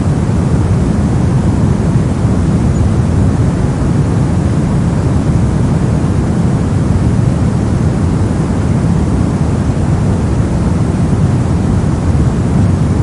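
Brown noise: a steady, loud, deep rumbling hiss with its energy heavy in the bass and thinning out toward the treble, unchanging throughout.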